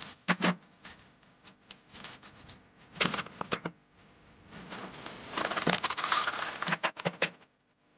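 Handling noise from working on a broken broom: sharp knocks and clicks in small clusters, with a stretch of scraping or rustling about two-thirds of the way through.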